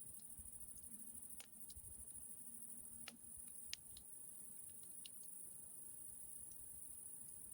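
Campfire crackling faintly, with about a dozen sharp pops and clicks scattered at irregular intervals over a steady high hiss.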